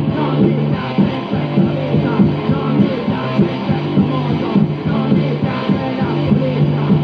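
Punk rock band playing loud and fast from an early-1980s demo recording: electric guitar, bass and drums with singing.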